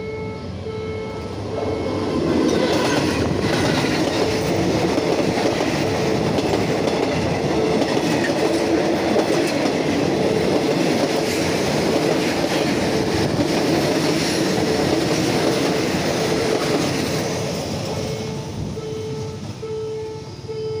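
A diesel-hauled passenger train arrives and passes close by, its wheels clattering over the track, growing loud about two seconds in and fading away near the end. A level-crossing warning signal beeps steadily about twice a second throughout.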